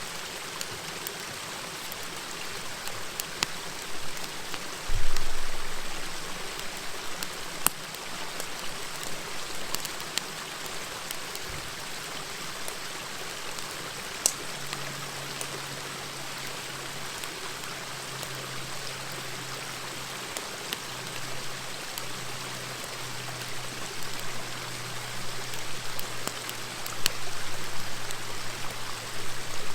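Steady murmur of a river with the scattered sharp pops and crackles of a wood campfire. A louder low thud comes about five seconds in, and a low steady hum joins about halfway through.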